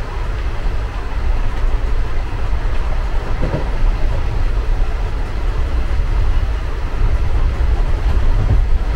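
Indian Railways passenger coach running along the track, heard from inside the carriage: a steady low rumble with a couple of brief knocks from the wheels and track.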